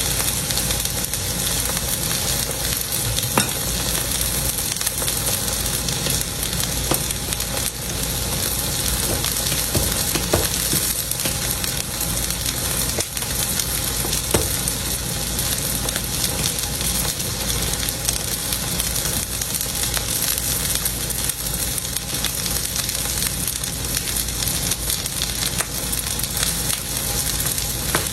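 Steak sizzling steadily in a hot pan, with a few sharp pops now and then.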